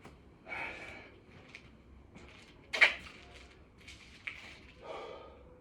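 Hard, noisy breaths of a man exerting himself through a long set of six-count burpees, with a sharp slap or thump about three seconds in, the loudest sound.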